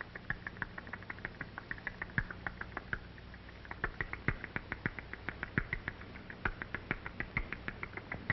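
Baby barn owls peeping to be fed: short, high cheeps repeated rapidly, about four to five a second, thinning out briefly about three seconds in. A low steady hum runs underneath.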